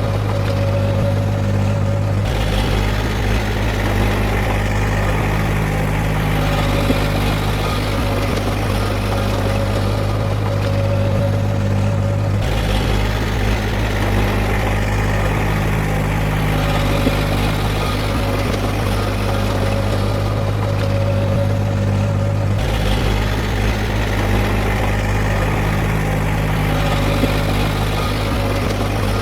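Heavy earthmoving machine's diesel engine running steadily, its tone shifting about every ten seconds.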